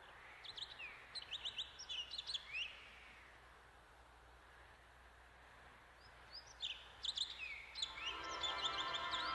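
Birds chirping in two bouts of quick, high chirps over a soft steady hiss, with orchestral music fading in near the end.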